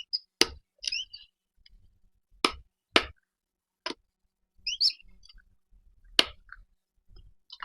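Sharp, irregularly spaced clicks and cracks, about five in all, as raw pigeon wing bones are crushed for feeding a falcon. There are also a couple of faint, short, high chirps.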